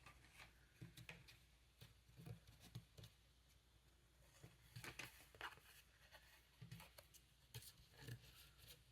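Near silence with faint, scattered rustles and light taps of a paper tag and twine being handled.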